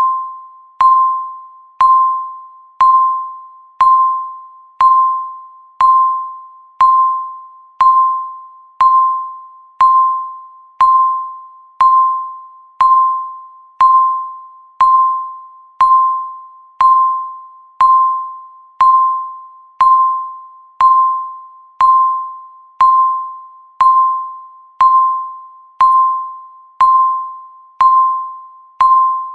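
Countdown timer beeping once a second. Each beep is a single mid-pitched electronic tone that starts sharply and fades away before the next.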